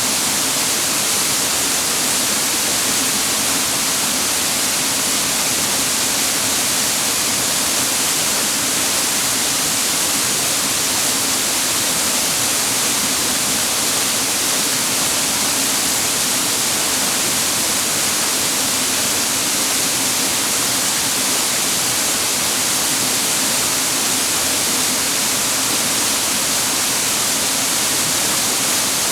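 Steady, unbroken rush of a clear mountain stream's falling and flowing water.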